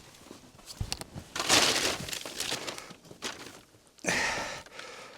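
Tarp rustling and crinkling in a few bursts as it is pulled down and tied off, the loudest burst about a second and a half in.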